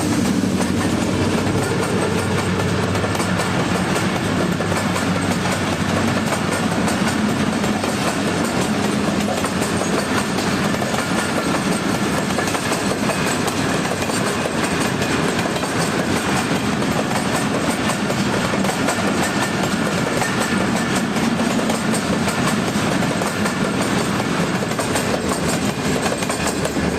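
Pakistan Railways' Karakoram Express passenger train running through without stopping, its coaches rolling past at speed. The wheels on the rails make a steady, loud rumble with continuous clickety-clack over the rail joints.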